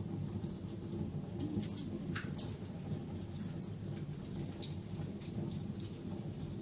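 Wood fire burning: a steady low rumble of flames with frequent, irregular sharp crackles and pops, one louder pop about two seconds in.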